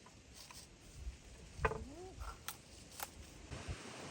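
Wind buffeting the microphone, growing stronger near the end, with a few light clicks and knocks and a short rising-and-falling call about two seconds in.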